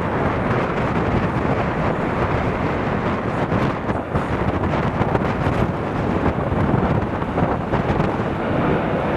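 Strong gusty wind buffeting the camera microphone: a loud, steady rumbling rush with no clear tone.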